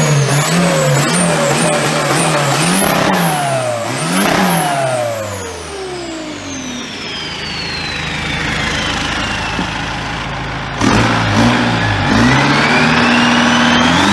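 Turbocharged engine revved in a run of quick blips, two larger revs about three and four seconds in, with a high turbo whistle rising and falling with each. The revs drop away and the turbo whine falls slowly over several seconds, then near the end the engine comes up again and the whistle starts rising.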